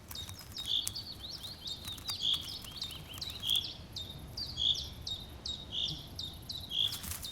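Birds chirping: a short high call repeated about once a second, mixed with quick falling notes, over a faint outdoor background.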